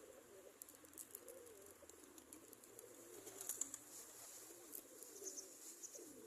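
Pigeons cooing softly, a low wavering murmur of overlapping coos, with faint scattered clicks.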